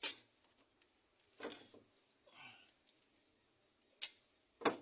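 Hand tools knocking and clanking on an engine while a stuck cylinder head is worked loose: a sharp knock at the start, another about a second and a half in, and two close together near the end.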